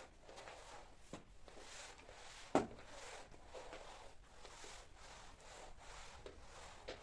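Soft rubbing and rustling of household cleaning work, with a few small clicks and one sharp knock about two and a half seconds in.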